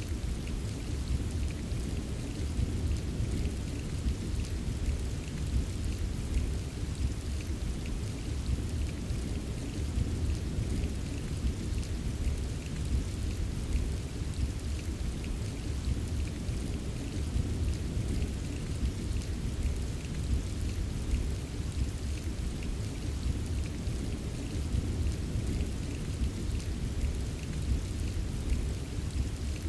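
Steady rain ambience: an even wash of falling rain with fine drop ticks on top and a constant low rumble underneath, unchanging throughout.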